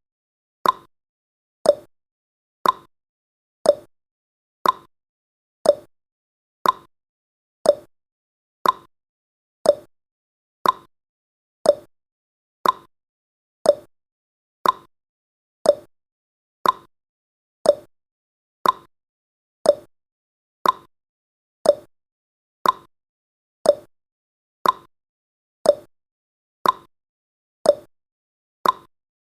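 Countdown timer's ticking sound effect: a short, sharp tick once a second, each dying away quickly, marking off the seconds.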